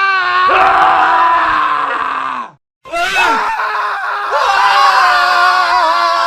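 Men screaming, one long scream after another. The first falls in pitch and cuts off about two and a half seconds in, and after a brief silence a second long scream starts and is held.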